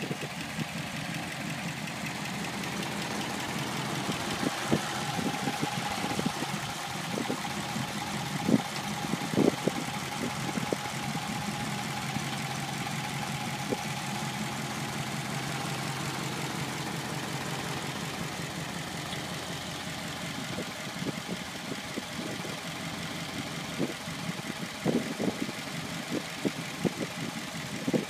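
A 1955 Ford Crown Victoria's Y-block V8 idling steadily with a fast, even beat, heard with the hood open. A few sharp clicks stand out above it, around a third of the way in and again near the end.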